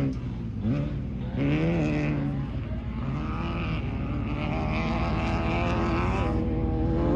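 Off-road race car engine running hard, its pitch rising sharply about a second and a half in, then climbing slowly and holding high.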